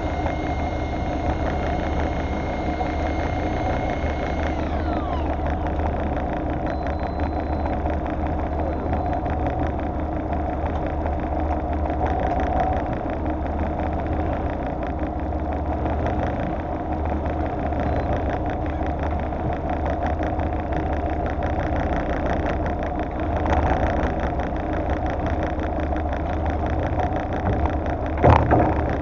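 Fishing boat's engine running steadily at idle. A thin high whine stops with a short falling glide about four seconds in, and there is a single sharp knock near the end.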